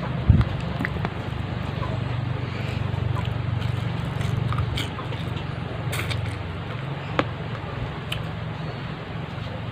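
Close-miked mukbang eating sounds: chewing and mouth smacking as tuyo (dried fish) and rice are eaten by hand, with scattered small crunchy clicks. A dull thump comes about a third of a second in, over a steady low background hum.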